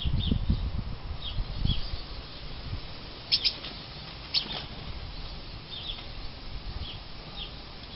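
Great tits giving short, high chirps every second or so, with two sharper, louder calls about three and four and a half seconds in. A low rumble runs under the first two seconds.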